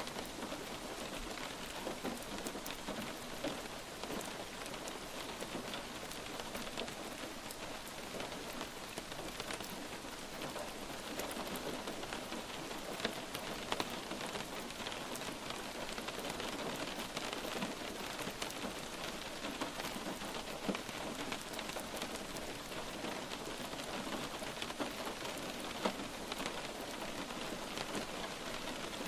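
Light rain falling steadily, with many individual drops pattering and ticking on a surface and an occasional sharper drop hit.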